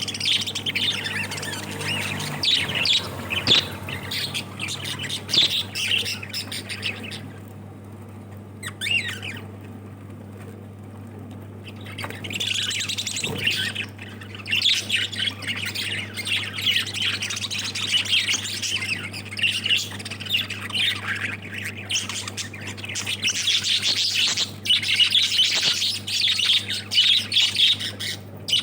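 Lovebirds chattering with rapid, shrill squawks and chirps, easing off for a few seconds in the middle before starting up again, over a faint steady low hum.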